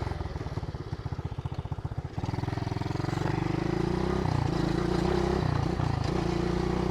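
SSR110 pit bike's small single-cylinder four-stroke engine, first putting along at low revs with each firing pulse distinct, then picking up about two seconds in and running steadily with a few small rises and dips in revs.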